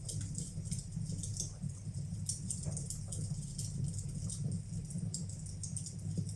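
Wood fire burning in a fireplace, crackling with many small sharp pops at irregular intervals over a steady low rumble.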